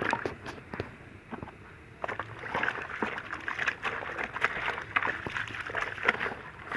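Clothes being sloshed and worked by hand in a bowl of water: a run of irregular short splashes, quieter for about a second near the start, then picking up again.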